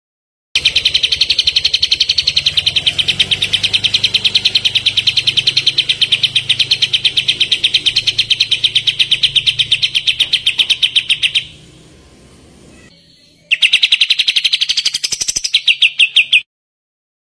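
Kapas tembak songbird singing a long, fast trill of rapid, evenly repeated high notes, about ten a second. The trill breaks off for a couple of seconds, then resumes briefly and stops abruptly.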